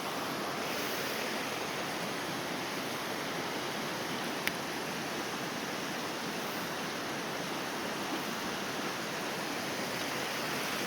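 Rain-swollen mountain creek rushing steadily, a constant noisy roar of water, with one brief sharp click about four and a half seconds in.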